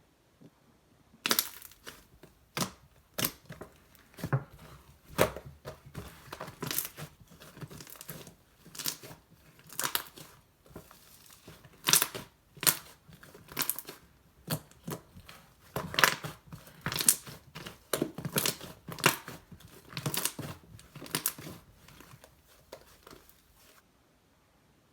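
Slime being squeezed and stretched by hand, giving a stream of irregular sharp pops and crackles from trapped air, several a second, starting about a second in and stopping shortly before the end.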